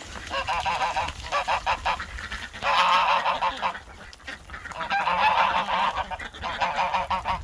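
Domestic geese honking together in a noisy clamour, with two long, loud bouts about three and five seconds in and shorter calls between.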